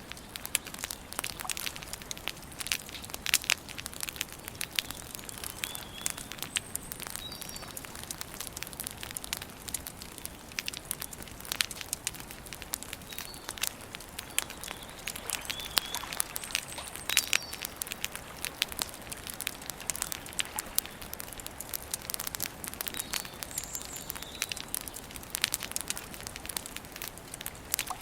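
Wood campfire crackling steadily, with irregular sharp pops and snaps. Short bird chirps come now and then in the background.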